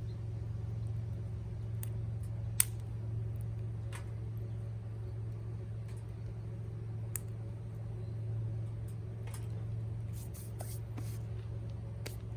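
Wood campfire crackling, with scattered sharp pops (the loudest about two and a half seconds in) over a steady low hum.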